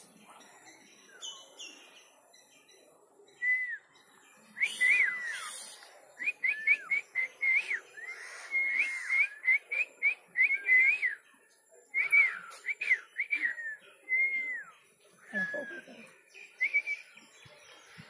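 Songbird calling in quick runs of short whistled chirps, several a second, starting a few seconds in and thinning out near the end. A brief rustle comes about five seconds in.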